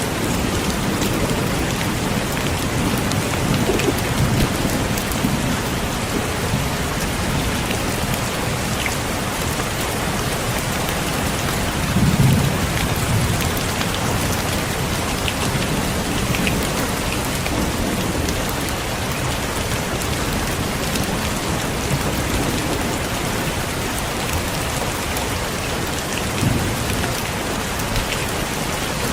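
Heavy rain falling steadily, with low thunder rumbling now and then, loudest about twelve seconds in.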